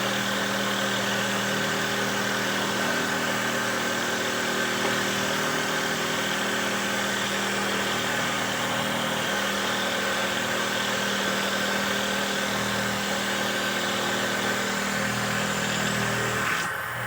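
Motor of a handmade wooden dowel-making machine running steadily with an even, unchanging hum, dipping briefly just before the end.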